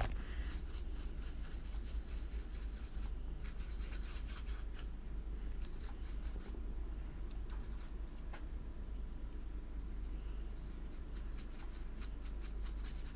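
Paintbrush strokes on paper, a soft repeated brushing and scratching as watercolour is laid down, over a steady low electrical hum.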